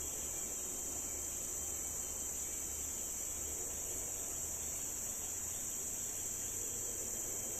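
Steady chorus of tropical forest insects: a continuous high-pitched drone that does not let up.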